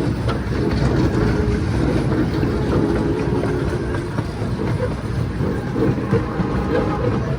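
Steady rumble and rattle of a miniature ride train moving along its track.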